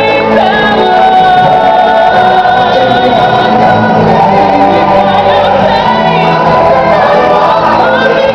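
Music with several voices singing together, holding wavering notes.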